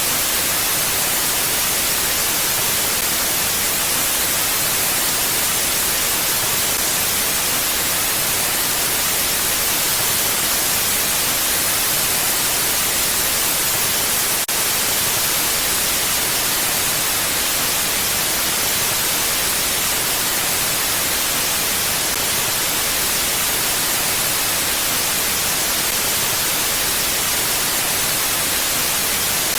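Mountain wind as a steady, even hiss with no gusts, with one faint tick about halfway through.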